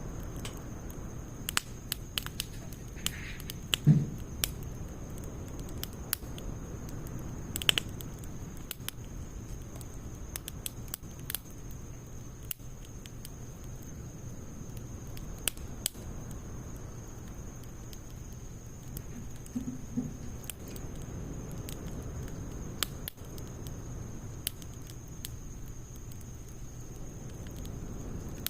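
Wood fire crackling in a Snow Peak fire stand, with irregular sharp pops from the burning logs and pine needles; two louder pops about four and eight seconds in.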